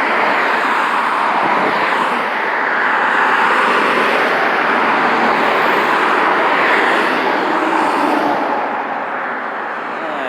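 Road traffic going by: a steady rush of tyre and engine noise that swells as vehicles pass and eases off near the end.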